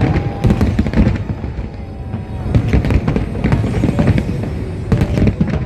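Fireworks shells bursting in rapid succession: many sharp bangs and crackles over a continuous low rumble, with music faintly beneath.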